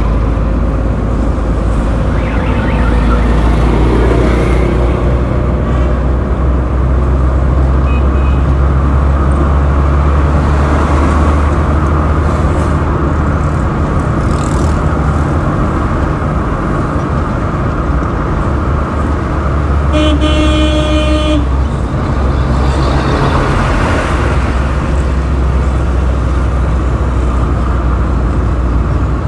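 Road traffic heard from a moving vehicle: a steady low engine and road rumble, with a vehicle horn honking for about a second and a half about two-thirds of the way through.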